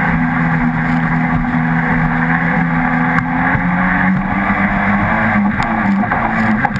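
Jet ski engine running at a steady speed, a constant hum under rushing noise.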